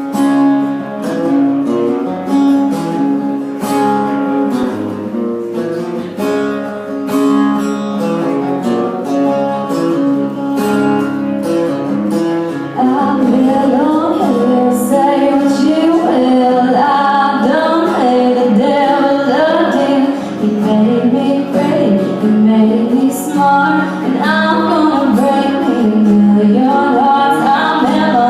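Acoustic guitar strummed and picked as a song intro, joined about 13 seconds in by a woman singing a country melody over it.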